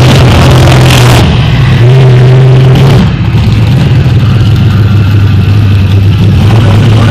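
Monster truck engine running loud and held at high revs, then dropping back to a lower, steadier run about three seconds in.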